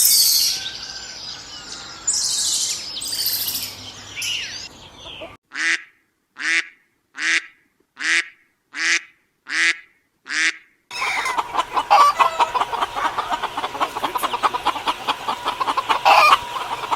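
Bird calls in three parts. First a jumble of high chirps, then eight short, evenly spaced honking calls, then a dense chorus of rapid calls from about two-thirds of the way in.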